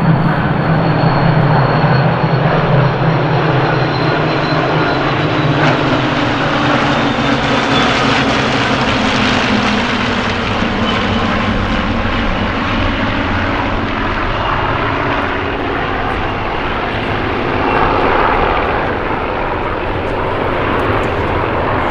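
A large formation of Supermarine Spitfire and Hawker Hurricane fighters flying past, their V12 piston engines droning together. The engine note slowly drops in pitch over the first ten seconds or so as the formation passes, then settles into a steady roar.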